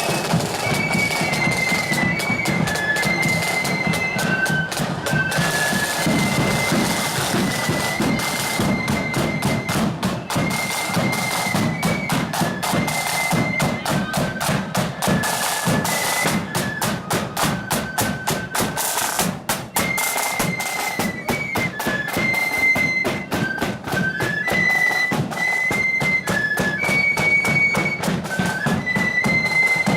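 Marching band playing a tune: a high-pitched melody on flutes over a steady, busy beat of snare and bass drums.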